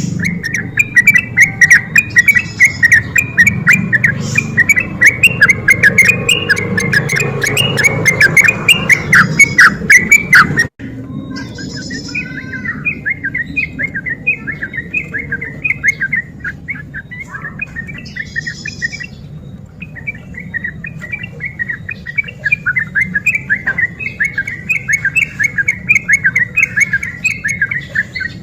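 Yellow-vented bulbul (trucukan) singing a fast, continuous run of bubbly, chattering phrases, as used for a lure recording. About 11 seconds in there is an abrupt cut, and the song carries on over a quieter background.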